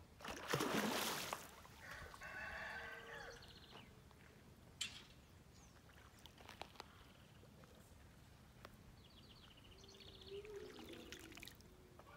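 A brief rushing burst of noise about half a second in, then a bird giving two long drawn-out calls several seconds apart, with a few faint clicks between them.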